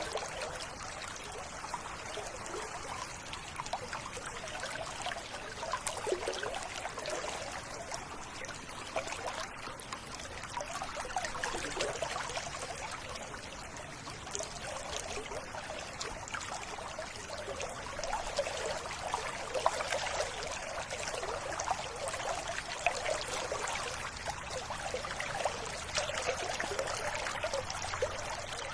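River water running steadily over a shallow bed, with constant small splashing and bubbling.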